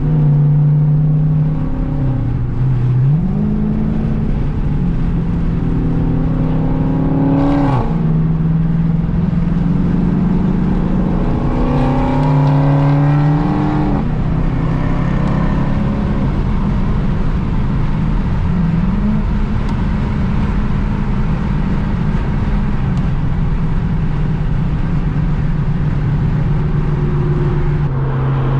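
Dodge Hemi V8 engine driving along at steady revs, pulling up in pitch twice with a sharp drop in revs after each climb, as at an upshift.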